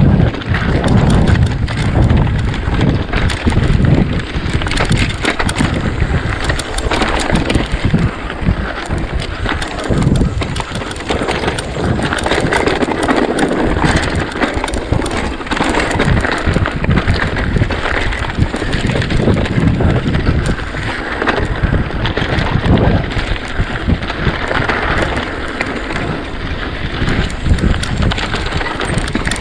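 Mountain bike ridden fast down a rough trail: tyres rumbling over stones and the bike rattling with many quick clicks and knocks over the bumps, with wind buffeting the microphone.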